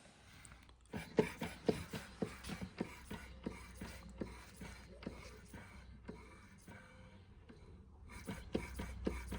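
Antique George Carette 687/1 hot-air Stirling engine running, its moving parts clicking about four times a second. The clicking grows fainter in the middle and comes back stronger near the end, with the burner flame just turned back up after being set too low.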